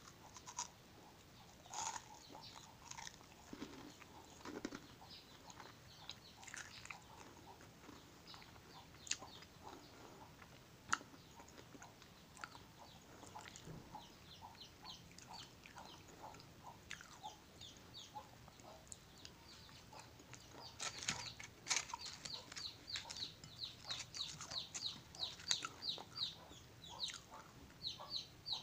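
Close-up chewing of a whole Ferrero Rocher, the wafer shell and hazelnuts cracking in small crisp crunches. About twenty seconds in, a bird starts peeping in quick, evenly spaced calls, about four a second.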